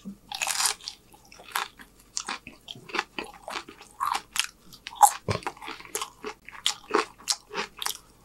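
Close-up crunching of a crisp fortune cookie being bitten and chewed, with sharp crunches coming a few times a second.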